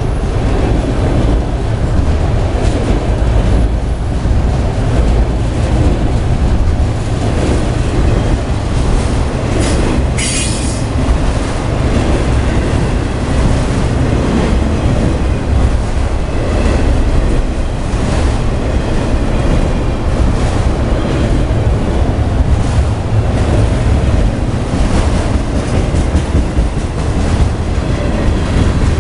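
Freight train of autorack cars rolling past close by: a steady rumble and clatter of steel wheels on rail, with a brief high wheel squeal about ten seconds in.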